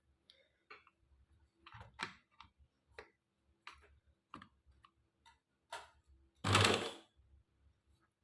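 Scattered small clicks and taps of sewing-machine parts being handled during oiling, with one louder rustling scrape about six and a half seconds in.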